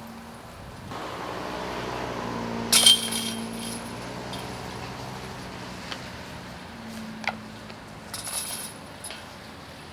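A disc hitting the metal chains of a disc golf basket: a sharp metallic jangle about three seconds in, and a lighter chain jingle near the end. Under the first strike, the hum of a passing vehicle swells and fades.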